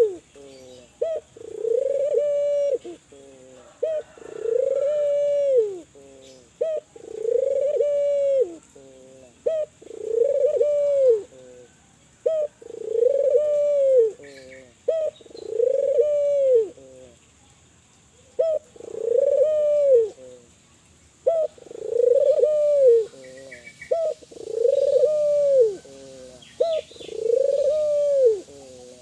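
Kelantan-type spotted dove (tekukur) singing its coo over and over: each phrase is a couple of short notes followed by one long coo that rises and falls, about one phrase every two seconds. Faint high chirps from small birds come in now and then.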